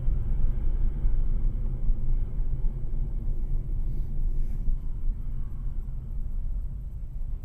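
Low, fluctuating rumble of a vehicle on the road as picked up by a dashcam microphone, starting abruptly, with a brief hiss about four seconds in.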